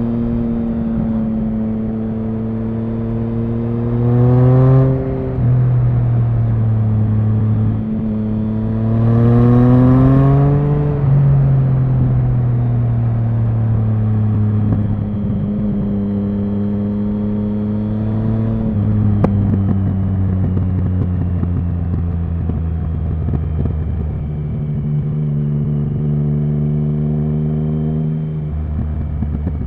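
Triumph Speed Triple 1050's inline three-cylinder engine under way at low speed: it revs up briefly twice, each time dropping sharply as the throttle is closed or a gear is changed, then runs steadily at lower revs, falling again about two-thirds of the way through.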